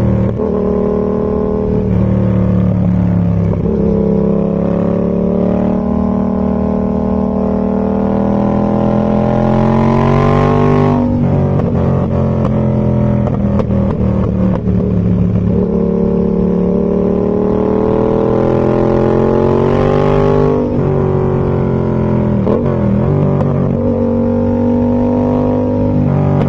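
2019 Yamaha MT-07's parallel-twin engine through a Zard aftermarket exhaust, heard onboard while riding: the engine note climbs slowly through a long pull in gear, drops sharply at an upshift about eleven seconds in, climbs again and drops at another shift about twenty seconds in, with a short dip a couple of seconds later.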